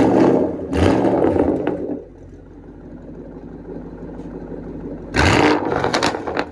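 Shelby GT500 Mustang's V8 idling through a custom catless exhaust and being revved in three short blips, one right at the start, one about a second in and one near the end. Each rev is loud.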